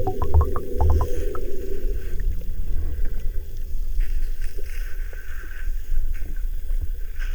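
Underwater ambience: a steady low rumble, with a few clicks and low pulses in the first second and a half.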